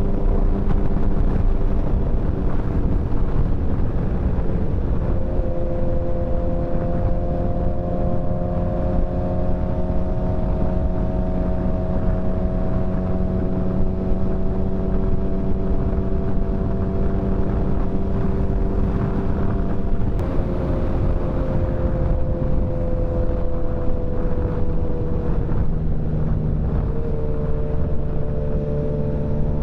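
Motorcycle engine running at a steady cruising speed, with wind rush on the microphone. The engine note shifts a little about two-thirds of the way through and again near the end.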